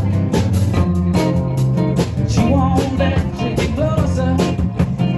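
Blues-rock band music: guitar and bass over a drum kit keeping a steady beat.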